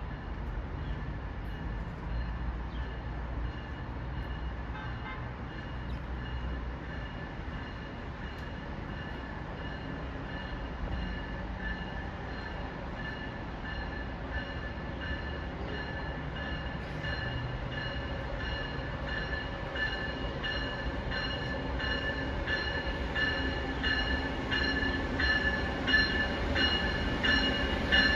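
A train approaching on the Northeast Corridor, growing steadily louder, with a steady high whine and a rhythmic clatter of wheels over the rails that sharpens near the end.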